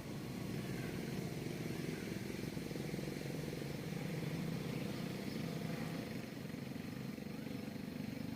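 Steady low engine hum from a motor vehicle running.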